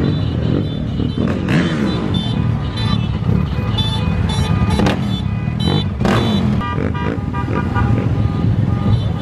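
Engines of motorcycles and other vehicles running together in a convoy, one revving up about a second and a half in, with repeated short horn toots through the middle.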